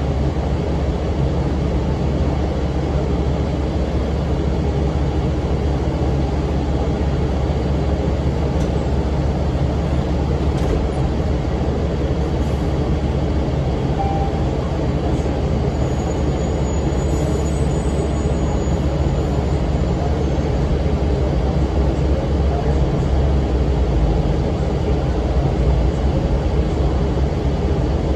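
Cummins ISM diesel engine of a 2006 NABI 40-foot low-floor bus running with its engine cooling fan on, a steady low rumble that swells slightly about three-quarters of the way through.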